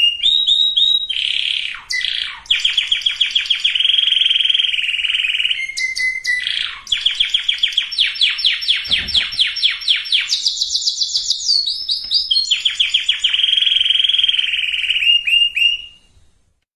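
Domestic canary singing a loud, fast song of rolling trills, each made of quickly repeated notes, with a swooping glide and a brief high held note in the middle. The song stops abruptly near the end.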